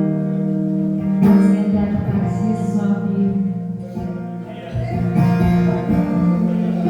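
Acoustic guitar playing held, strummed chords that change every second or so, as live music.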